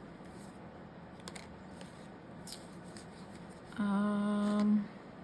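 Faint rustling and light ticks of paper being handled, then a woman's short hummed "mmm" at one steady pitch, lasting about a second, near the end.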